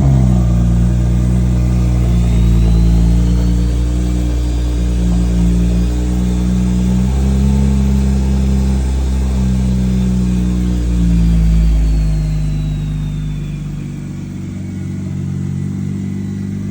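Car engine running steadily after a brief rev, its pitch holding nearly level with small shifts; it drops somewhat in loudness about two-thirds of the way through.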